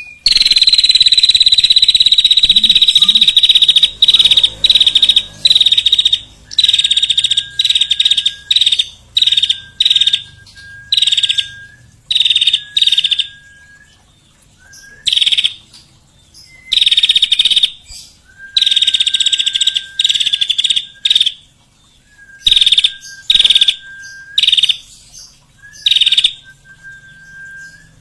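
Songbird singing: high, rapid rattling trills given in loud bursts of about half a second to a second, over and over with short gaps, and a short, lower, level whistle between many of them.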